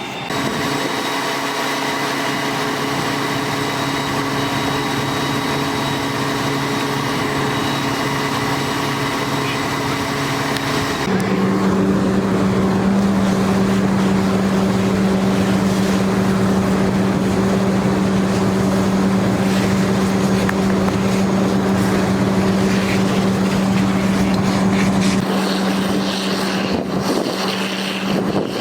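A large engine running steadily at a constant speed, stepping up abruptly to a higher, steadier pitch about eleven seconds in and holding there.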